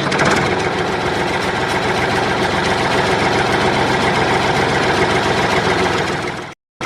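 Tractor engine idling steadily, a stock sound effect, with a rapid even chugging. It cuts off abruptly near the end.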